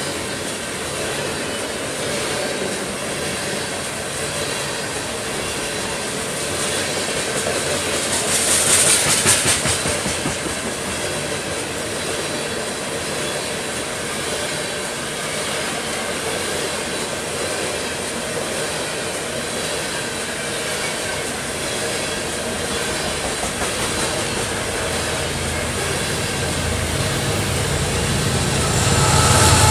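Loaded coal hopper cars rolling past on the rails: a steady rumble and clatter of wheels. About nine seconds in, a brief louder patch with a high hiss stands out. A deeper rumble builds near the end.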